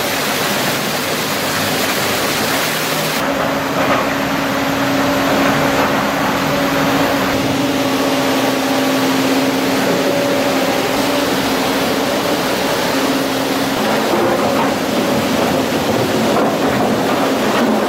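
Excavator's diesel engine running steadily with a continuous drone; the sound changes character about three seconds in.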